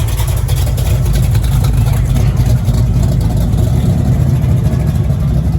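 Car engine idling close by: a steady, deep rumble that holds an even pitch.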